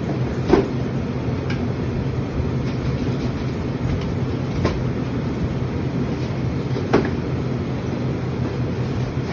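Steady low hum of refrigeration machinery, with a few sharp knocks of drink containers being moved on the cooler shelves. The loudest knocks come about half a second in and about seven seconds in.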